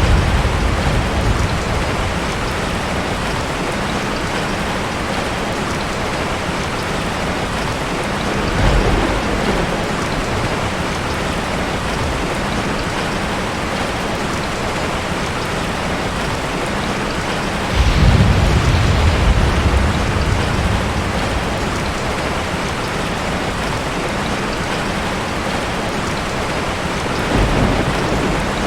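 Steady rain falling, with low rolls of thunder rumbling through it three times, the loudest about two-thirds of the way in.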